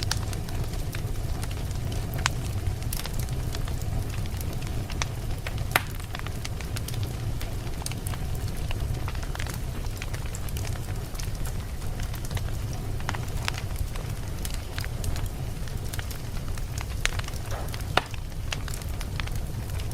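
Burning wood fire crackling, with irregular sharp pops and snaps over a steady low rumble of the flames. A few pops stand out louder, about 6 seconds in and again near the end.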